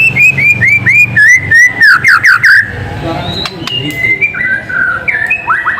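White-rumped shama singing: a fast run of short, loud whistled notes, each dropping in pitch, about five a second, then a few longer slurred notes. After about two and a half seconds come quieter, varied whistles, with a quick rising note near the end.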